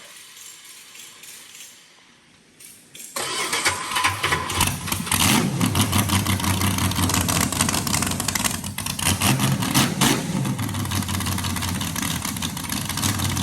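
A carbureted V8 race engine catches and fires about three seconds in, then runs loud and uneven, its throttle blipped so the revs surge and fall.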